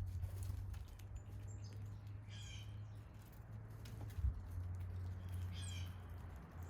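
Blue jay giving two short harsh calls about three seconds apart, with a few faint high chirps and light ticks, over a steady low hum.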